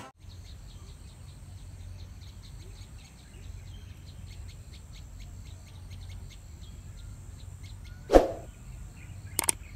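Small birds chirping in quick repeated high notes over a faint steady high hiss. About eight seconds in a single loud sharp pop cuts across it, followed by a few quick clicks near the end.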